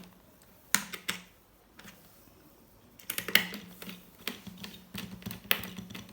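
Sharp clicks and taps of hands working on an HP ProBook 4520s laptop: two clicks about a second in, then an irregular run of clicks from about three seconds on, over a faint steady low hum.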